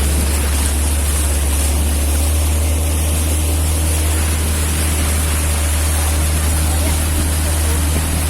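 Speedboat with a 40 hp engine running steadily at speed, with water rushing past the hull; a loud, even drone and hiss throughout.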